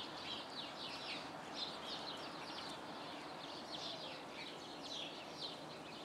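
Small birds chirping faintly in the background: a steady run of short, high, falling chirps, several a second.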